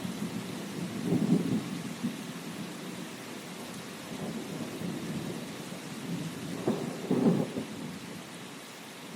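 Steady rain falling, with two low rumbles swelling up, one about a second in and another near the end.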